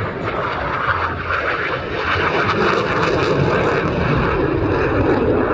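Jet aircraft flying past at an airshow, a steady rushing engine noise that grows louder about two seconds in and stays loud.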